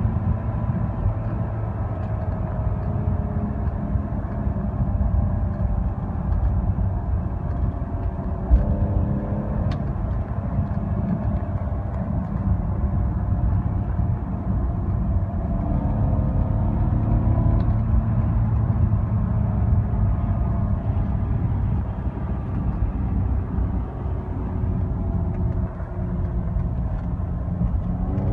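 BMW E46 325xi's 2.5-litre straight-six running through its exhaust, a steady low drone whose note rises and falls a few times as the revs change. There is one short sharp knock about eight seconds in.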